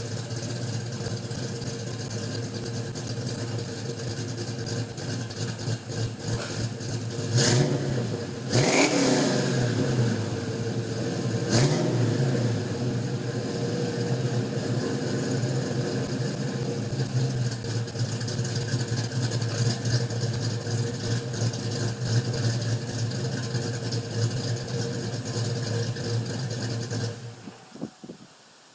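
1993 Ford Mustang GT's 5.0-litre V8 running through BBK shorty headers, an H-pipe and Flowmaster mufflers after a cold start. It is blipped three times a quarter of the way in, the middle rev the biggest. It settles back to a steady idle, then the engine is switched off near the end.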